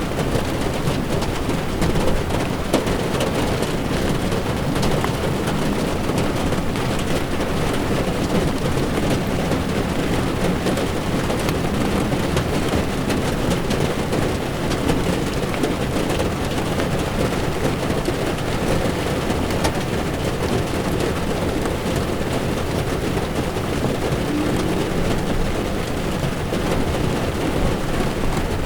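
Car driving in heavy rain: rain on the windshield and tyres on the wet road make a steady rushing noise with scattered small ticks of drops.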